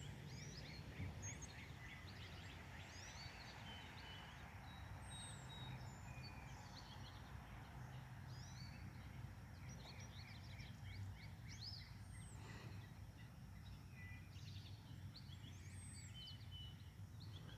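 Several songbirds chirping and singing faintly, many short overlapping calls and whistles, over a steady low background hum.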